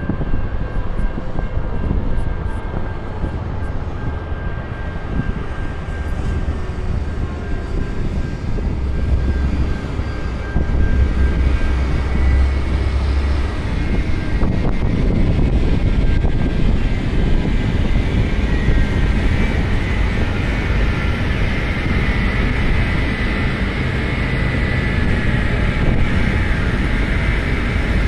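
Long freight train rolling past close by, a steady rumble of wheels on the rails that grows louder about ten seconds in, with faint steady high-pitched tones above it.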